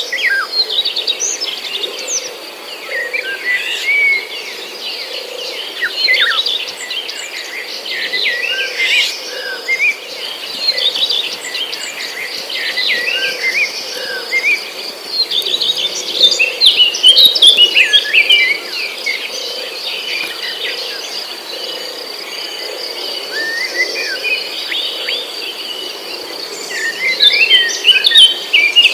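Small birds chirping and twittering in quick clusters of short notes, busiest about two-thirds of the way through and again near the end. Under them runs a steady high insect drone.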